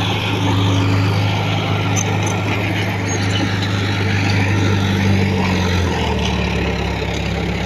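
Diesel engine of heavy earthmoving equipment running steadily, its note dropping lower about six seconds in.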